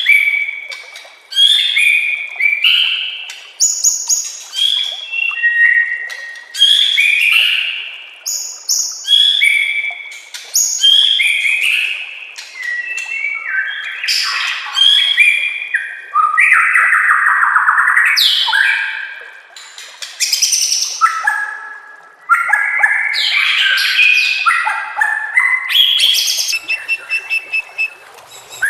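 White-rumped shama (murai batu) singing a long run of loud, varied whistled phrases, each about a second long with short pauses between them, with a longer, harsher buzzy phrase around the middle.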